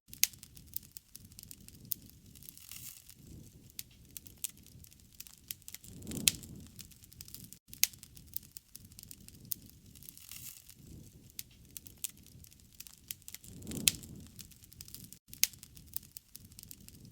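Wood campfire burning, with many sharp crackles and pops over a low, soft rumble of flame that swells up about every seven and a half seconds, the same pattern coming round again as if looped.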